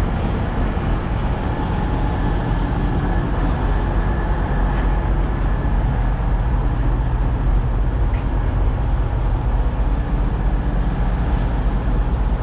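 Semi-truck diesel engine idling, a steady low rumble with a faint high whine over it.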